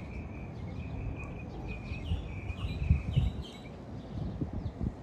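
Small birds chirping, a string of short high calls, over a low outdoor rumble with a few louder low knocks around the middle.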